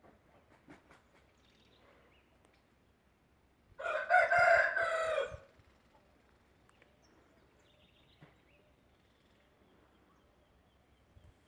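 A rooster crowing once, a single loud cock-a-doodle-doo about four seconds in that lasts about a second and a half.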